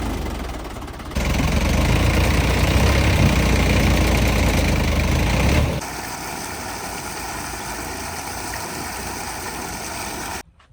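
Tractor diesel engines running steadily, in three stretches with abrupt jumps in level: louder from about a second in, quieter again just before six seconds, cut off near the end.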